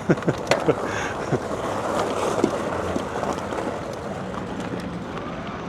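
Wind rushing over the microphone while riding an e-bike, a steady even noise, with a few short clicks in the first second.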